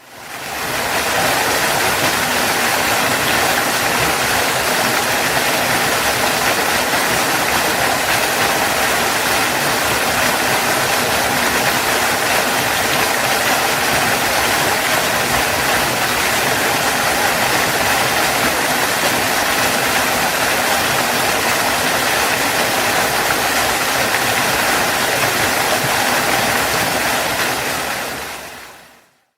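Waterfall: a steady rush of falling water. It fades in from silence at the start and fades out again near the end.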